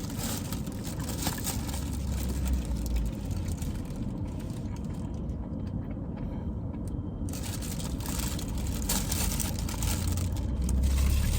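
Steady background noise with a low rumble.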